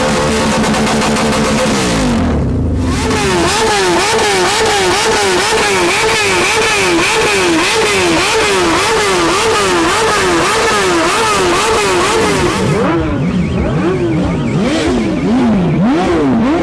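Sport motorcycle engine revved hard in quick repeated throttle blips, its pitch rising and falling about one and a half times a second, with wider, deeper sweeps in the last few seconds.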